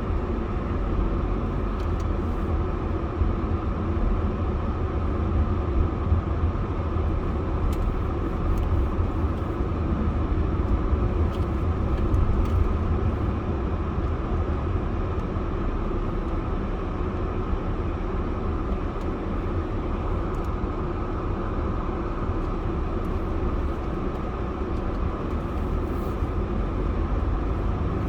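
Steady rumble of a car driving, tyre and engine noise with most of its weight in the low end, unchanging throughout.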